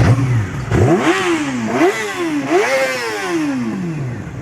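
A vehicle engine revved in three throttle blips about a second apart. Each time the pitch climbs quickly and then falls away more slowly, and the last one dies away near the end.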